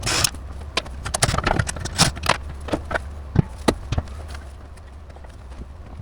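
Irregular knocks, clicks and clatter of equipment and cables being handled and moved around, dense for the first few seconds and then thinning out, over a steady low hum.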